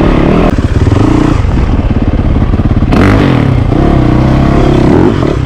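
Yamaha YZ450FX dirt bike's single-cylinder four-stroke engine running hard under load, its revs rising and falling as it is ridden over rough ground.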